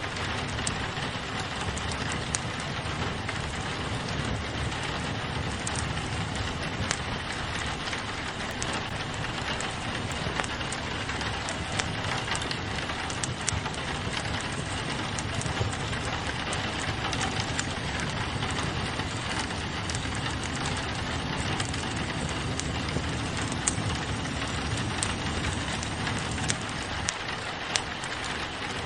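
Steady hiss of rain on a window, with a wood fire crackling: scattered sharp pops and snaps over the rain.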